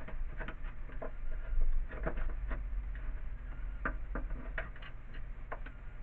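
Irregular light clicks and taps as small pieces of scrap material are handled and sorted through by hand, over a steady low hum.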